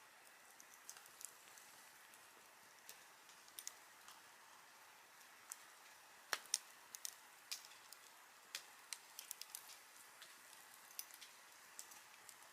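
Wood campfire crackling: a faint steady hiss with irregular sharp pops, the two loudest close together just past the middle.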